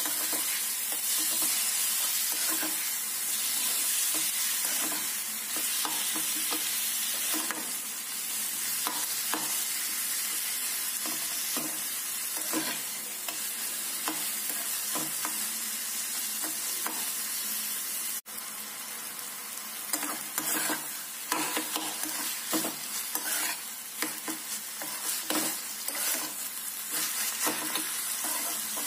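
Chopped tomatoes and onions sizzling in hot oil in a kadai while a perforated steel spatula stirs and scrapes them against the pan in irregular strokes. The sizzle breaks off for an instant about two-thirds through, and the stirring strokes come more often after it.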